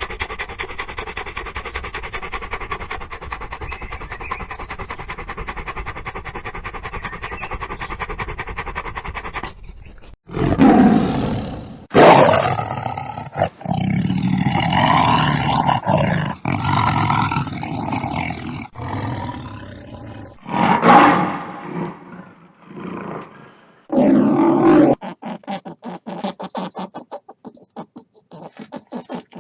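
A run of separate animal sound clips: about ten seconds of fast, even pulsing, then a series of loud roars and growls, then quick clicking near the end.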